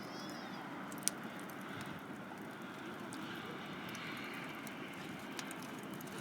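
Wood fire crackling a few times, the sharpest crack about a second in, over a steady background noise, with a brief bird chirp near the start.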